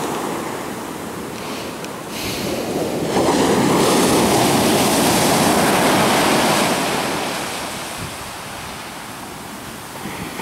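Ocean surf: a wave breaks and rushes in, swelling about two seconds in and easing off again after about seven seconds, with some wind on the microphone.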